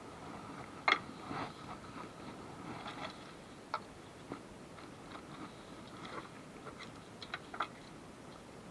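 Scattered light clicks and knocks of hand work on a car: a sharp one about a second in, a few faint ones after it, and a quick run of three near the end.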